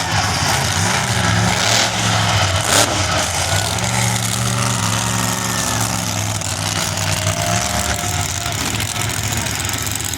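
Monster truck engine running loudly and unevenly at idle, its pitch shifting with small throttle changes, with one sharp crack about three seconds in.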